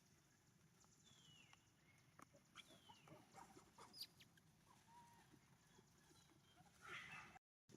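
Faint animal calls: a few short, high chirps that fall in pitch, with scattered light clicks, and a short burst of noise near the end before the sound cuts out briefly.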